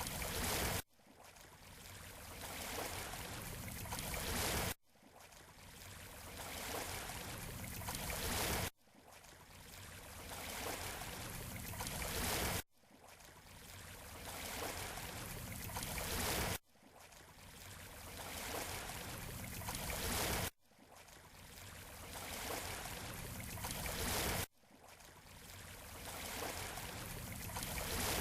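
Surf washing on a beach, played as a short loop: each rush of water noise swells for about four seconds, cuts off abruptly, and starts over, about seven times.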